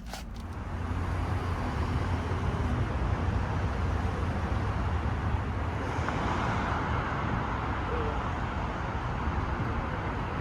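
A car on the move: steady road and engine rumble that builds up over the first second.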